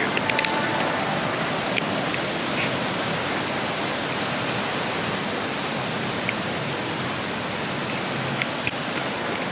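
Heavy rain pouring down: a steady hiss with scattered sharp drip ticks.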